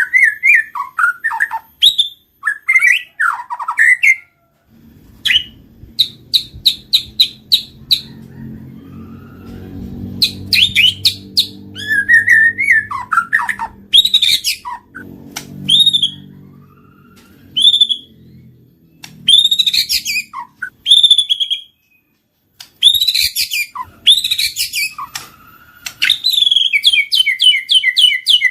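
White-rumped shama (murai batu) singing: varied whistled phrases with bending notes and fast runs of repeated notes, the kind of song played to a caged shama to make it sing. A fainter low hum runs underneath from about five seconds in until about seventeen seconds.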